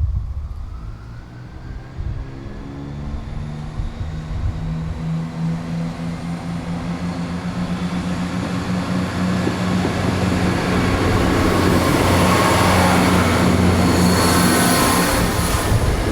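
Diesel-hauled train approaching and passing. The locomotive's engine grows steadily louder, then wheel and rail noise swells to a peak near the end.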